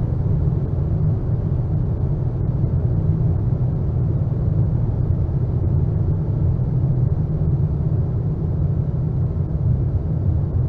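Steady low rumbling noise drone from a dark ambient, experimental noise track, heaviest in the deep bass with no melody, beat or change.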